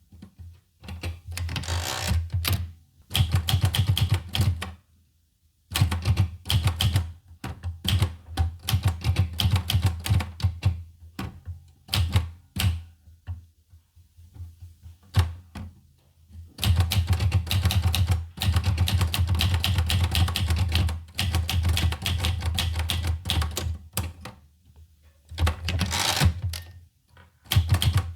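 Olivetti Lettera 25 manual portable typewriter being typed on: runs of rapid key strikes broken by short pauses, the longest about three seconds midway.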